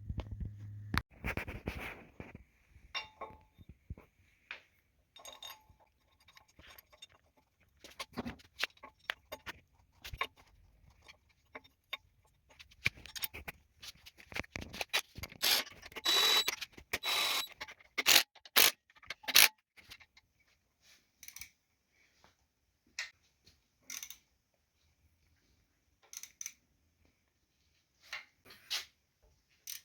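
Scattered clicks, knocks and scrapes of hard objects being handled and set down, busiest in a run of sharper knocks midway through.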